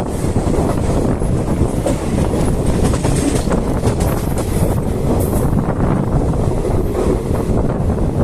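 Passenger train running at speed: steady rumble of the coach on the rails, with wind noise on the microphone.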